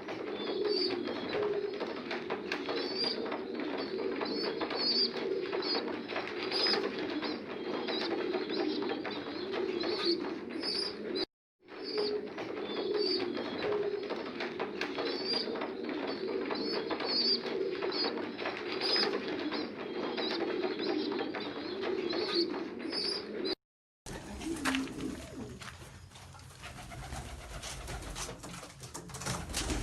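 A flock of pigeons cooing together, a dense overlapping cooing, with short high chirps repeating above it. The sound breaks off twice, and in the last few seconds it becomes a different recording where the cooing is weaker and a low rumble is stronger.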